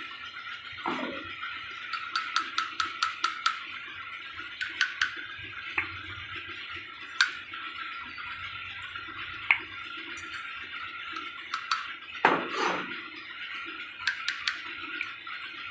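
Light metallic clinks and taps of tools and parts being handled, with a quick run of clicks about two seconds in and a heavier knock near the end, over a steady hiss.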